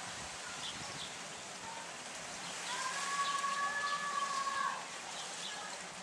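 Outdoor background hiss with scattered short, faint bird chirps. In the middle a steady, level tone is held for about two seconds and is the loudest sound.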